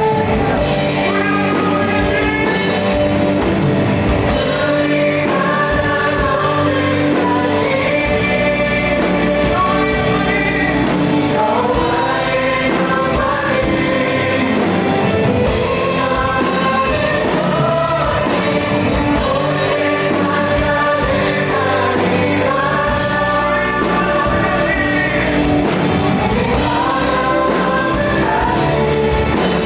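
Live worship band playing a contemporary Christian worship song: several singers in harmony over drums, bass guitar, electric guitars and keyboard, with a steady beat.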